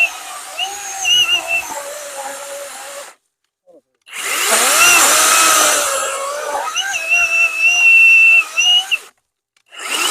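Worx WG385E 16-inch battery chainsaw cutting through logs: the electric motor whines, its pitch wavering and sagging as the chain bites into the wood. It comes in three stretches broken by abrupt silences, and the whine rises as the saw spins up again about four seconds in.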